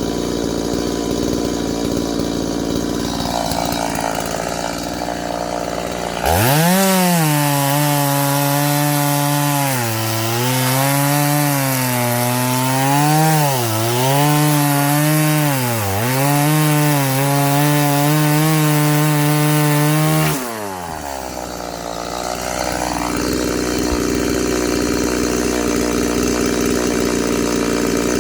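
Two-stroke chainsaw idling, then opened to full throttle about six seconds in and cutting through firewood for about fourteen seconds. Its pitch dips and recovers several times as the chain bogs under load, then it drops back to idle.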